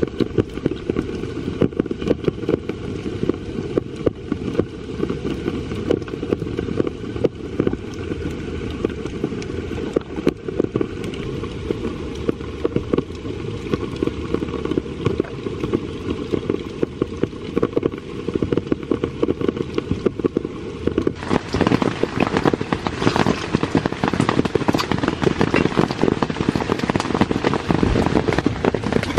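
Heavy rain pattering, a dense steady crackle of countless drops. About 21 seconds in it turns brighter and sharper.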